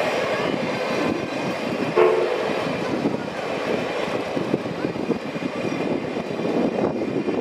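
Train of old-type passenger coaches behind the C61-20 steam locomotive rolling past close by, a steady loud rattle of wheels and running gear. A brief pitched blast sounds about two seconds in.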